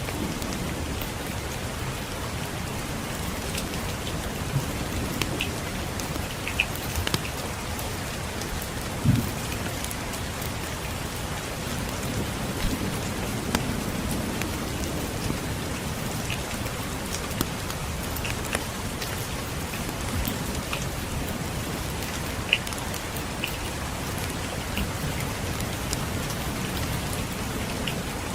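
Steady rain falling, with scattered sharp pops and crackles from a wood fire in a fireplace, the loudest about nine seconds in. A low rumble of distant thunder swells midway.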